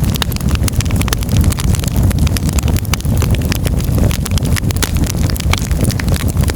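Firewood burning in a fireplace, crackling: dense, irregular pops and snaps over a steady low rumble.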